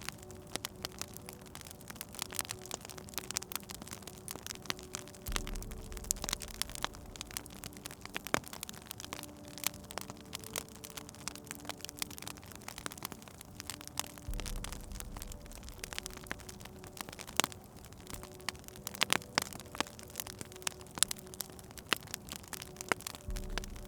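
Wood fire crackling in a fireplace, with many irregular pops and snaps over a faint steady hum. A low rumble comes in about every nine seconds.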